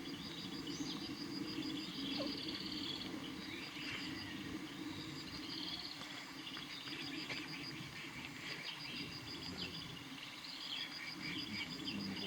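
Forest birds chirping, with a rapid, even pulsing trill high up that drops out midway and returns near the end, over a steady low background hum.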